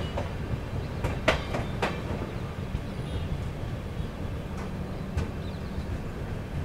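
Running noise of an LHB passenger coach on the move: a steady low rumble with two sharp clacks from the wheels on the rails about a second and a half in.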